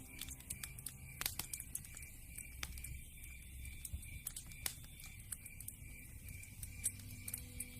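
Wood fire crackling: irregular sharp pops and snaps from burning logs over a low, steady rumble, with a louder pop about a second in and another near the middle.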